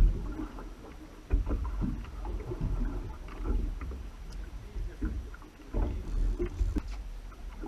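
Sea water sloshing with a muffled low rumble and irregular knocks.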